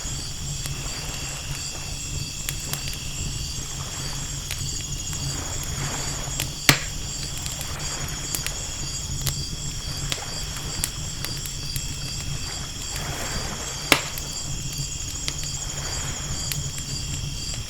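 Night ambience of ocean waves washing in every few seconds and a crackling campfire, with two sharp pops about a third and three quarters of the way through. A steady chorus of night insects trills over a low hum throughout.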